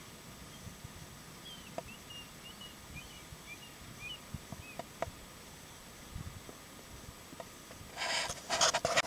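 Faint small-bird chirping, a quick run of short high chirps in the first few seconds, over a quiet outdoor background with a few soft clicks. Near the end, a few loud rustling crunches.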